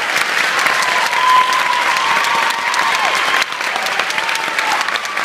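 Audience applauding, dense clapping, with a long high-pitched call held over it that drops away about three seconds in; the clapping thins a little after that.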